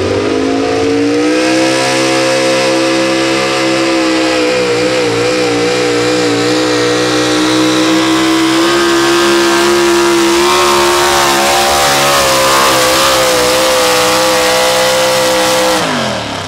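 Pro Stock four-wheel-drive pulling truck engine at full throttle during a pull. It revs up in the first second or so, holds at high rpm with a wavering pitch for a few seconds, and drops off sharply near the end as the run ends.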